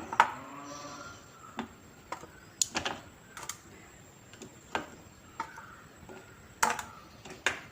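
Hard pieces of homemade peanut candy (kadala mittayi) being handled, giving a dozen or so light, irregular clicks and taps.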